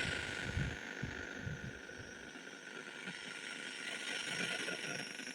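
Output of a 40 kHz ultrasonic detector: a steady hiss with irregular low rumbling thumps over the first two seconds that then fade, which the listener says sounds like thunder and could be distant lightning picked up by the device.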